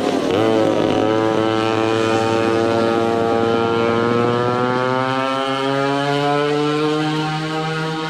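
Small go-kart engines running, one rising slowly and steadily in pitch as it accelerates.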